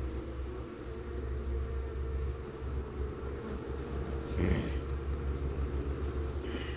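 Honey bees humming around an open hive box over a steady low rumble, with a brief rustle or knock about four and a half seconds in.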